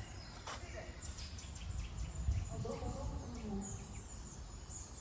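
Birds chirping in woodland over a low wind rumble on the microphone, with a faint distant voice coming through a sound system that is being tested.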